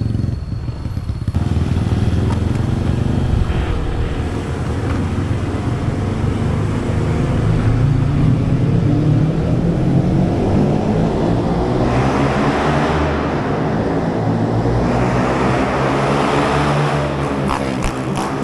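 Motorcycle engine running under way, with wind and road noise. The loudness steps up suddenly about a second in, and a hiss of wind and tyre noise rises in the second half.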